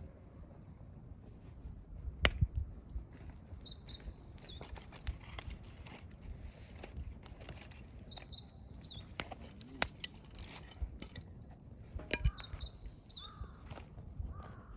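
Firewood burning in a campfire, crackling with sharp pops, the loudest about 2, 10 and 12 seconds in. A small wild bird calls three times in short, high chirping phrases.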